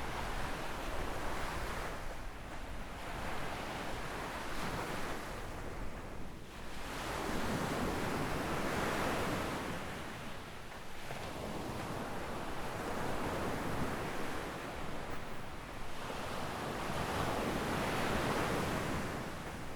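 Small waves breaking and washing up a sandy beach, the surf swelling and fading every four seconds or so.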